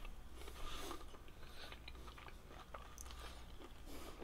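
A person chewing a mouthful of broccoli in cheese sauce close to the microphone: soft, irregular wet mouth clicks.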